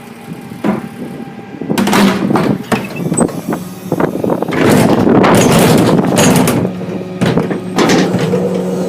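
2002 Dennis Phoenix refuse truck's rear compactor crushing a wooden pallet: wood cracking and splintering in repeated sharp cracks, with a loud stretch of crunching about halfway through. The truck's engine runs steadily underneath.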